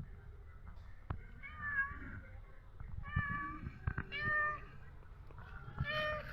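A cat meowing four times in short calls spaced about a second apart.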